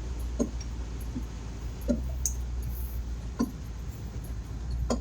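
Inside a moving car: steady low engine and road hum, with a soft knock repeating about every second and a half.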